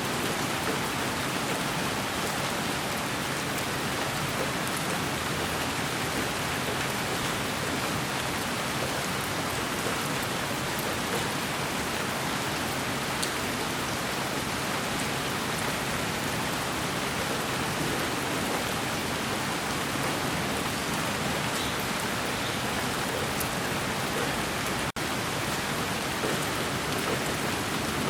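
Steady, even white noise with a rain-like hiss and a few faint ticks, played as a sleep sound for a baby. It drops out for an instant near the end.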